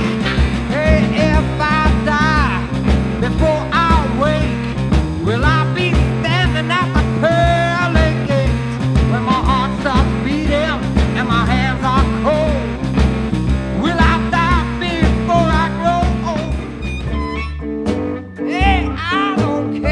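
Blues-rock band playing an instrumental passage: a lead line bending notes over steady bass and drums, the sound thinning briefly near the end.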